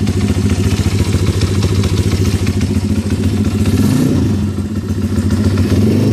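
140cc pit bike's single-cylinder four-stroke engine idling steadily, with a short blip of the throttle about four seconds in.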